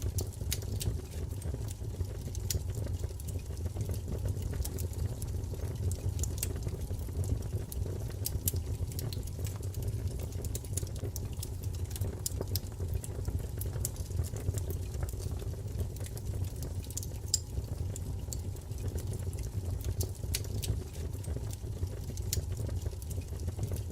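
Wood fire burning in a fireplace: a steady low rumble of flames with frequent irregular crackles and small pops from the burning wood.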